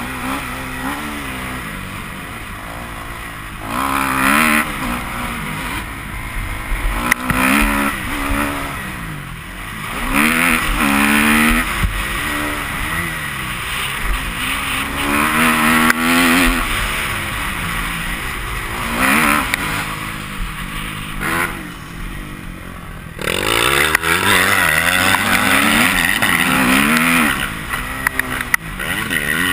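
Kawasaki KX250F four-stroke single-cylinder motocross bike ridden hard, the engine revving up and dropping back over and over as it accelerates through gears and backs off. The sound changes abruptly about three quarters of the way through.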